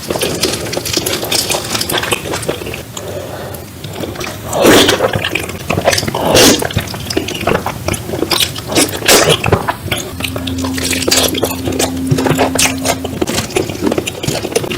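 Close-miked eating sounds: a steady run of wet chewing and mouth smacks, with two louder slurps or gulps about four and a half and six and a half seconds in.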